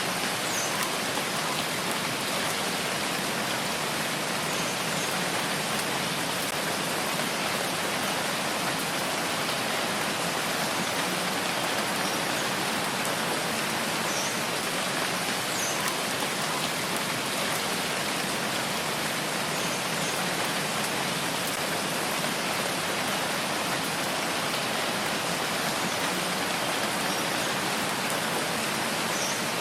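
Steady rain falling, an even hiss of many drops with a few faint separate drop ticks heard now and then.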